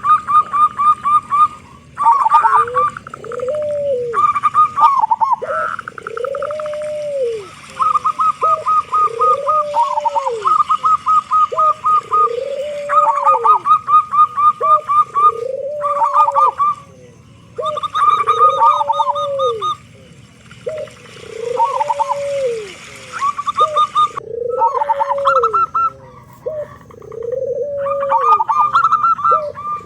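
Zebra dove (perkutut) singing: a long run of repeated arched coos, about one every second and a half, with quick stuttering higher notes in between. The bird is a loud, strong-voiced male.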